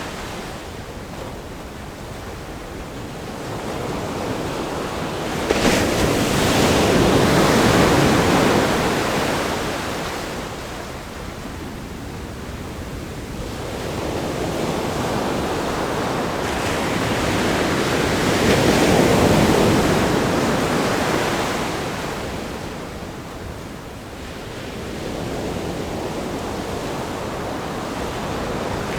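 Ocean waves crashing on a rock groin and breaking onto a sandy beach. The surf swells and ebbs, with a sudden crash about five and a half seconds in and another large wave building to a peak about two-thirds of the way through.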